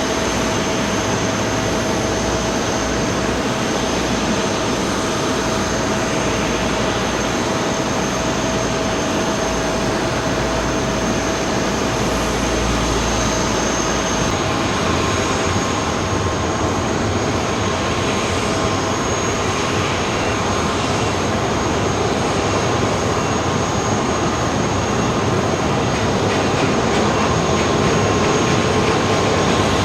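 Jet airliner engines running, a steady rushing noise with a high, constant whine; another whining tone joins about halfway through.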